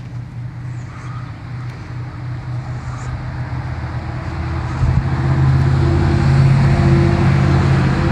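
A motor vehicle engine running with a steady low hum, growing louder and closer, loudest over the last few seconds.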